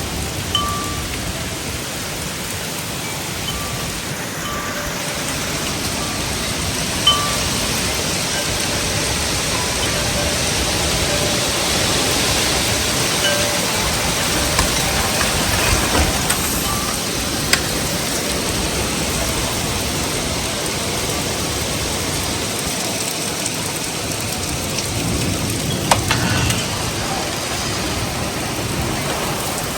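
Heavy, steady rain of a severe thunderstorm, with wind chimes ringing now and then through the first half and a few sharp knocks, three of them standing out.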